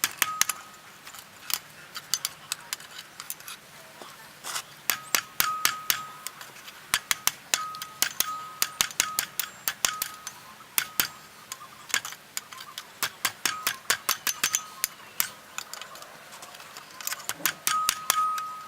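Hand hammer striking hot rebar on an anvil in irregular runs of quick blows, each with a short metallic ring, spreading one end of the bar wider.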